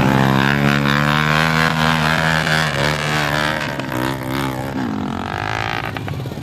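Off-road motorcycle engine revving, its pitch rising and falling repeatedly.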